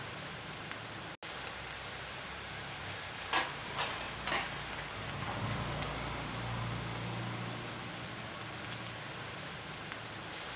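Onions, chilies, curry leaves and ginger-garlic paste sizzling steadily in hot oil in a pan, stirred with a metal ladle that clinks against the pan a few times about three to four seconds in.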